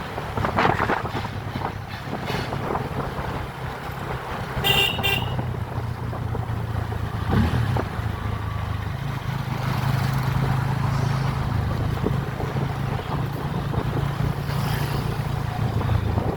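Motorcycle engine running steadily while riding, with wind noise. A vehicle horn toots once, briefly, about five seconds in.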